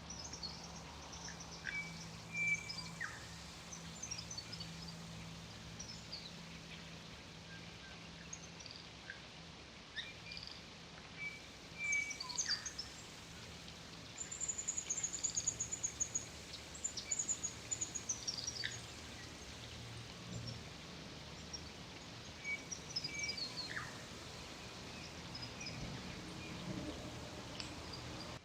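Several birds chirping and whistling, with a rapid high trill about halfway through and runs of falling notes, over a faint steady low hum.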